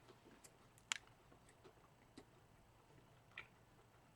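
Near silence with a few faint, scattered clicks, the clearest about a second in: quiet mouth sounds of someone chewing a chicken biscuit sandwich.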